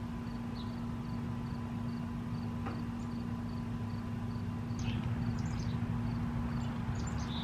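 Outdoor ambience: an insect chirping steadily about three times a second over a steady low hum, with a few short higher chirps about five and seven seconds in.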